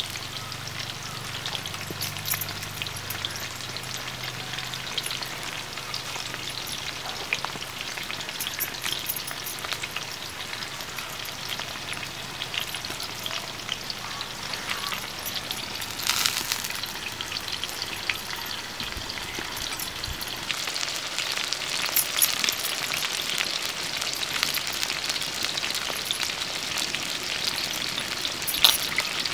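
Food frying in hot oil in a large iron kadai over a wood fire: a steady sizzle with many small pops and crackles. It flares up briefly about halfway through, grows a little louder in the last third, and there is a sharp crack near the end.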